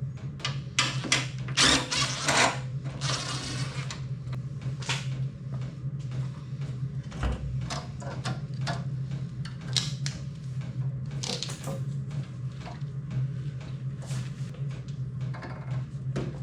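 Hand work on a motorcycle in a workshop: scattered clicks, knocks and clunks of tools and parts being handled, with a denser rasping burst about two to four seconds in, over a steady low hum.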